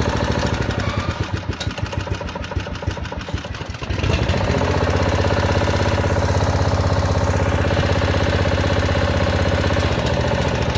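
Small engine of a pier-lifting machine running steadily, quieter and uneven for a few seconds early on, then picking up about four seconds in and running loud and even, as it powers the lift of a leaning chimney.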